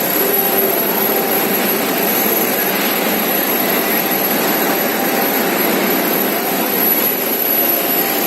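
Steady, loud roar of the furnaces and machinery in a railway spring shop's rod-heating area, with a thin high whine over it.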